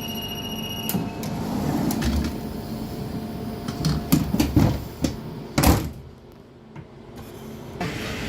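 A steady high tone that stops about a second in, then a run of knocks and clunks, the loudest a single thump a little past halfway, followed by a quieter spell.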